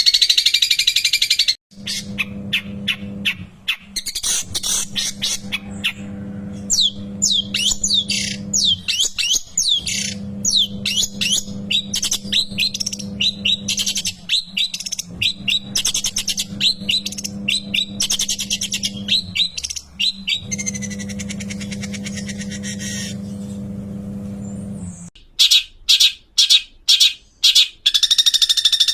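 Long-tailed shrike (cendet) singing: a loud harsh chatter at the start, then fast runs of chirps and short falling whistles, and a series of loud harsh notes near the end. A steady low hum runs under most of the song.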